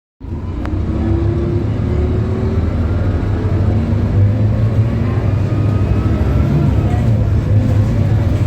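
Scania K280UB bus's Euro 5 Scania DC9 five-cylinder diesel running under way, cutting in suddenly: a loud, steady low drone with a higher whine that drifts up and down in pitch.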